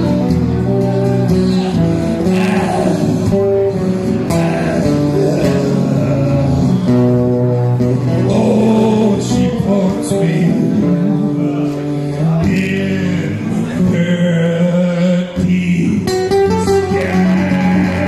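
Live song played on guitar, with a voice singing in places.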